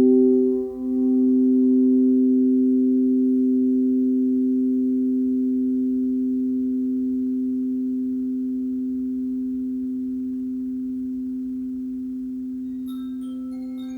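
Crystal singing bowl tones ringing in a long, pure, steady sound that slowly fades, with a brief waver about a second in. Near the end, short high bell-like notes start over it.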